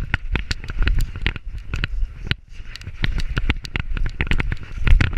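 Dog-mounted GoPro HERO3+ in its housing jolting on a running Labrador's back: quick irregular clicks, knocks and rattles over low thuds from the gallop, with a short lull about two seconds in.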